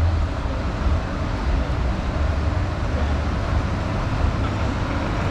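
Steady street ambience of passing traffic, with a constant low rumble.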